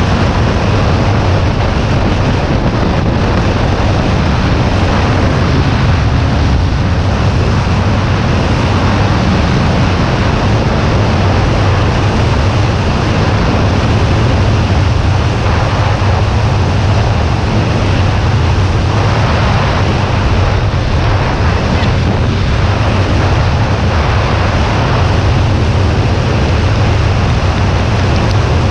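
Wind rushing over the microphone on a moving Kawasaki Ninja 400, a steady heavy noise with the bike's parallel-twin engine droning low underneath.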